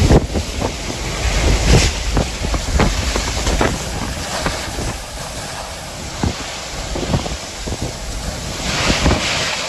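Hurricane wind buffeting the microphone, with a steady rush of wind and water and a heavy low rumble. Scattered sharp taps and knocks sound throughout.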